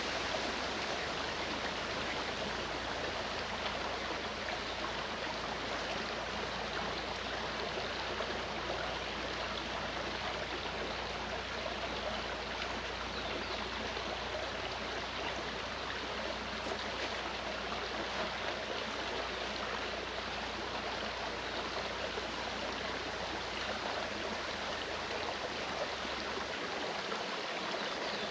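Clear mountain stream running over rocks, a steady rushing and burbling of water.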